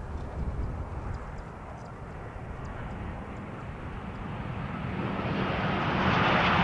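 Jet airliner's engines growing steadily louder as the aircraft draws near, a low rumble swelling into a loud rushing roar over the last couple of seconds.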